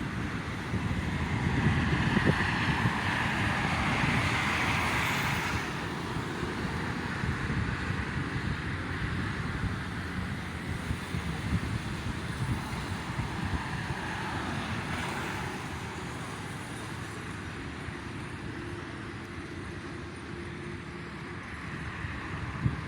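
Steady road traffic noise with wind buffeting the microphone. The noise swells louder about two to five seconds in and again around fourteen seconds.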